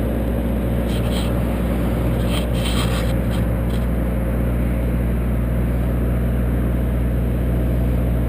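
A motor running steadily with a low, even hum, with a few faint scraping sounds between about one and four seconds in.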